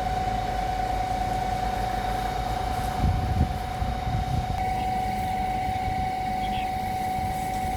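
An engine running steadily with a constant high whine over a low rumble, and a few dull thumps about three seconds in.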